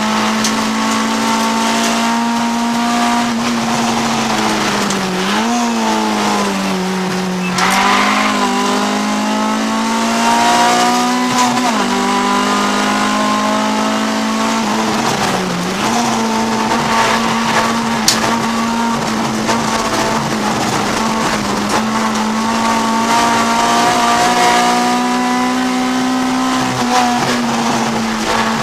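Honda CRX race car's B20 VTEC four-cylinder engine running hard at a steady high pitch, heard from inside the cabin. The pitch dips briefly and climbs back a few times, and there is a sharp click about 18 seconds in.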